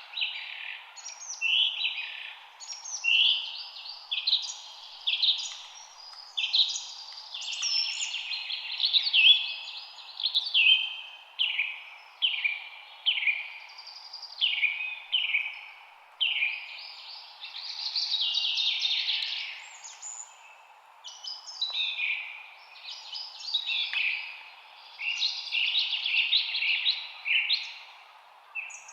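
Songbirds singing: short, high, bright phrases follow one another every second or so, over a faint steady background hiss.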